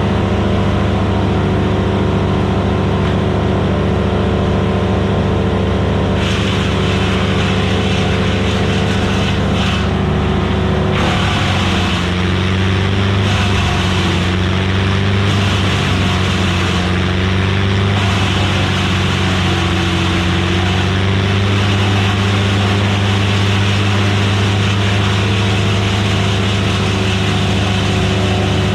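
Gasoline engine of a Vermeer BC1000XL wood chipper running steadily at high speed. About eleven seconds in, the engine pitch dips under load and a harsh grinding noise joins as wood goes through the chipper. The engine pulls back up to speed around twenty seconds in.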